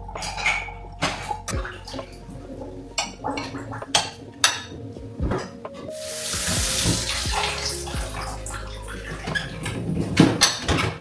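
Dishes and utensils clinking and knocking at a kitchen sink, with the tap running for about two seconds in the middle, over background music.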